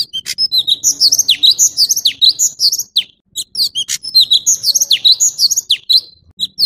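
Orange-bellied leafbird singing: a fast, varied run of high chirps and whistles, some sweeping sharply downward, in two long phrases with a short break about three seconds in.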